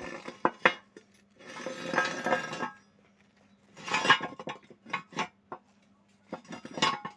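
Pieces of metal clinking and clattering against each other in irregular handling: a few sharp knocks and several short rattling stretches.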